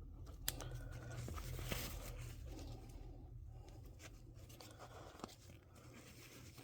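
Faint rustling and scuffing as a fabric doll outfit and a plastic fashion doll are handled, with a couple of small sharp clicks.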